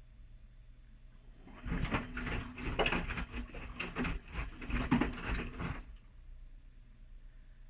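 Whirlpool washing machine in its main wash, churning the wet laundry: water sloshing and clothes tumbling for about four seconds, starting about a second and a half in and then stopping as the wash action pauses.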